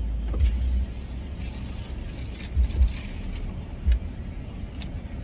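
Car engine idling, heard from inside the cabin: a steady low rumble with a few short, dull thumps.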